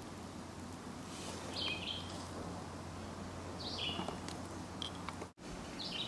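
Birds chirping over a steady outdoor hiss: a few short high calls about a second in, near four seconds and again just before the end. The sound cuts out for an instant about five seconds in.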